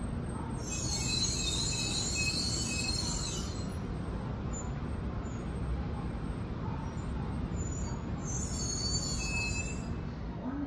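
Steady low rumble of a Shinkansen train in the station, with two spells of high-pitched squealing of a few seconds each: one starting about a second in, the other near the end.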